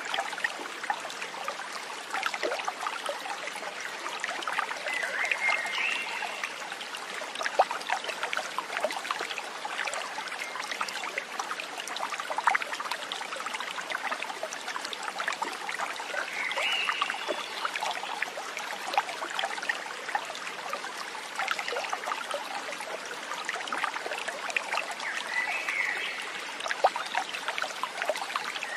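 Small stream trickling and babbling over stones, with many small splashes. A short high call rises above the water three times, about 5, 17 and 25 seconds in.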